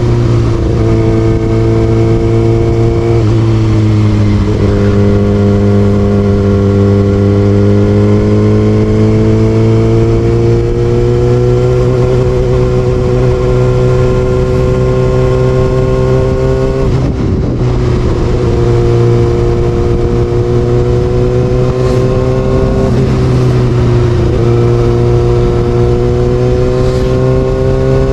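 Kawasaki Ninja ZX6R inline-four engine with an Austin Racing exhaust pulling along at steady revs. Its pitch climbs slowly through each gear and dips briefly at gear changes, about three seconds in, near the middle and again near the end.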